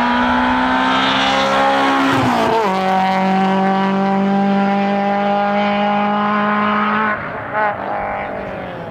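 Race car engine at full throttle on a hillclimb, held at steady high revs with one gear change about two and a half seconds in. It comes off the throttle about seven seconds in and fades away.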